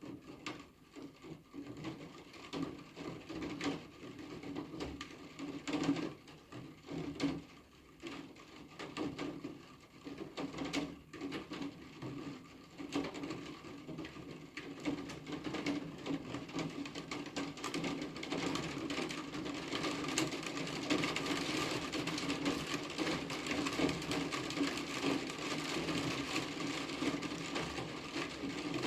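Rain falling, with separate drops tapping and ticking at first, then thickening into a denser, steadier, louder fall from about two-thirds of the way in.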